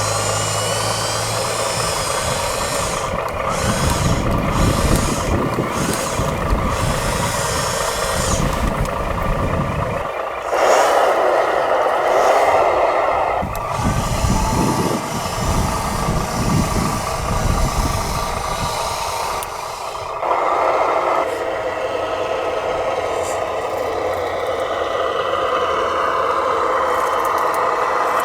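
Radio-controlled model construction machines working: small electric motors and gearboxes whining and buzzing steadily, with a louder buzzing spell about ten seconds in and again near twenty seconds, and bouts of low rumbling.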